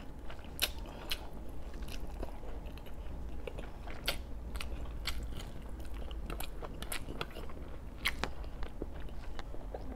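Close-miked mukbang chewing of braised pork belly, with irregular sharp wet mouth clicks as the food is bitten and chewed.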